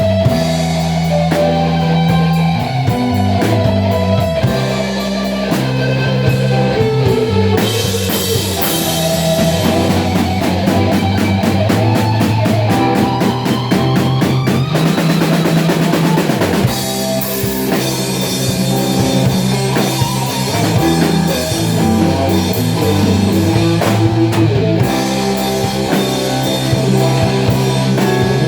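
Rock band playing instrumentally: drum kit, bass and guitar. A dense run of drum hits and cymbals builds up through the middle before the groove settles back.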